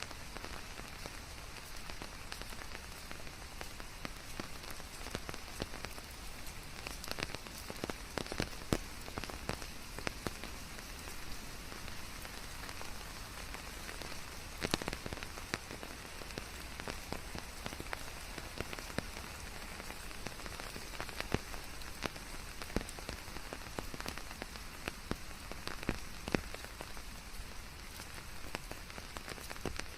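Steady rain falling on leaves, an even hiss with many separate drops ticking through it, some louder than the rest.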